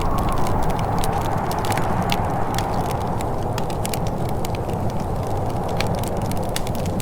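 Wood fire crackling in a fireplace, with frequent small sharp pops and snaps over a steady low rushing bed.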